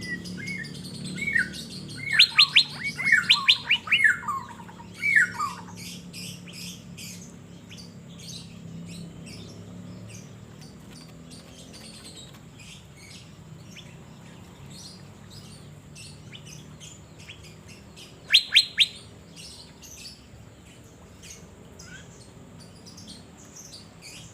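Asian fairy-bluebird singing loud, clear whistled notes, several sliding down in pitch, in a run over the first five seconds and again in a short burst about 18 seconds in. Fainter chirping continues in between.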